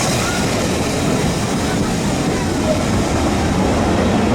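A train running, a loud steady rumbling noise with no clear rhythm, with voices faintly over it.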